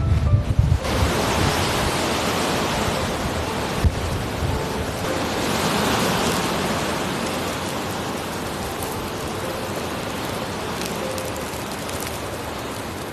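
Strong wind blowing snow, a steady hiss that swells about six seconds in and then slowly eases off. Wind buffets the microphone with a low rumble in the first second.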